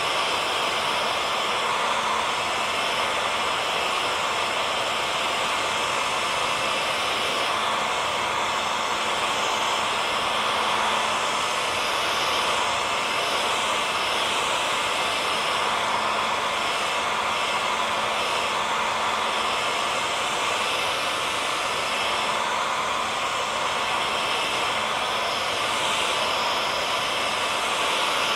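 Hair dryer running continuously, a steady even rushing of air with a faint constant hum, played as a sleep sound for a baby.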